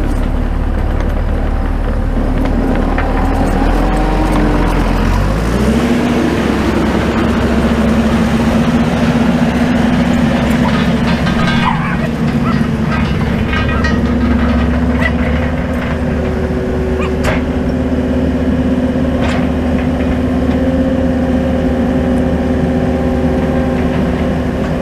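An engine running steadily, picking up speed about five seconds in and then holding at the higher speed. A few sharp knocks come through it in the second half.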